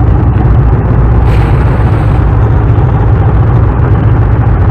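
Indian V-twin motorcycle riding at road speed: a steady low rumble of engine drone and wind rushing over the microphone.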